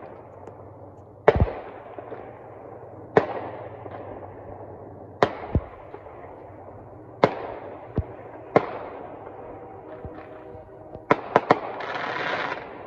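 Fireworks bursting in the distance: about ten sharp bangs, each trailing off in an echo, with a quick cluster of three just past eleven seconds. Near the end the horn of an approaching Canadian National locomotive sounds, swelling to its loudest in the last second.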